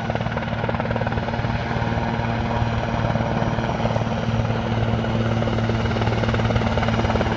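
Large helicopter running close by as it comes in to land: a rapid steady chop of the rotor over a constant engine drone.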